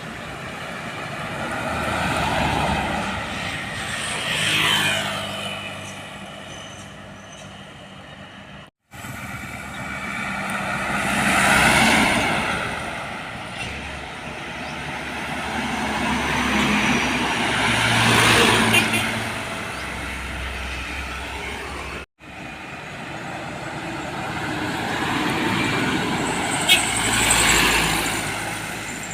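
Trucks passing on a road one after another, each engine and tyre sound swelling as it approaches and fading as it goes; one drops in pitch as it goes by. The sound cuts off abruptly twice, and there is a short sharp click near the end.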